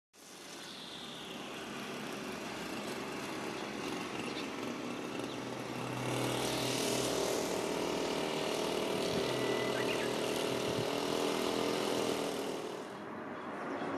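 A train running past. Its noise builds with a steady drone, is loudest from about six seconds in, and drops away about a second before the end.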